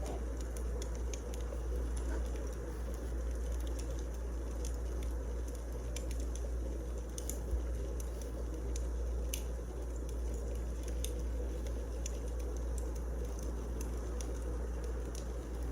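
Wood fire crackling: a steady low rumble with small pops and snaps scattered throughout, and one sharper pop about halfway through.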